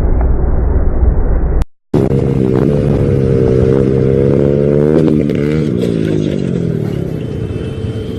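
A loud rumbling noise that cuts off abruptly. After a short gap, a motorcycle engine revs up, rising in pitch for about three seconds, then its pitch drops away.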